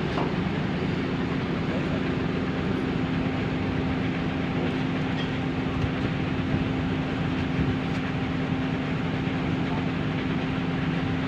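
Heavy diesel engine running steadily, a constant low drone with no revving or impacts.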